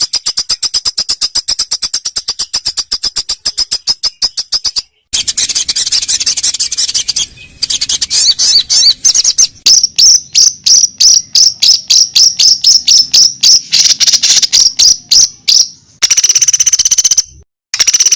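Recorded songbird song used as training material for fighter birds. Loud, sharp, high notes come in fast series, first as a rapid trill, then at about four a second, and break off abruptly several times where the recording is spliced.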